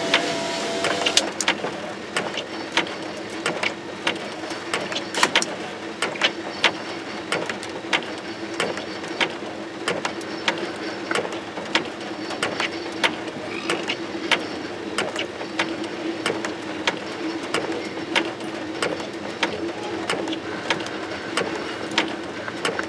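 Freight cars rolling past, their wheels clicking sharply over the rail joints at irregular intervals, about every half second, over a steady hum.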